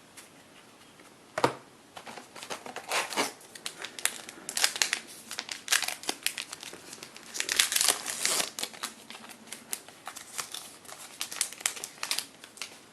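A baseball-card pack wrapper being torn open and crinkled, a dense crackling rustle that peaks about eight seconds in. A single sharp tap comes about a second and a half in.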